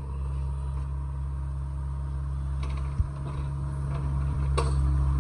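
A vehicle engine running steadily at low revs, a constant low hum, with a short click about three seconds in and a sharp knock shortly after.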